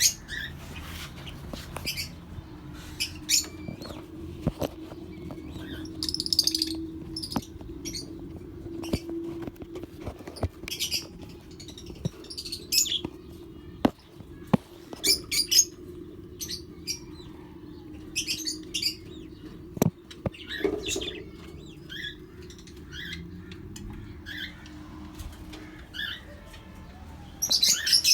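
Small pet parrots in an aviary chirping in short, high calls scattered throughout, with wings flapping and a few sharp clicks. A steady low hum runs underneath.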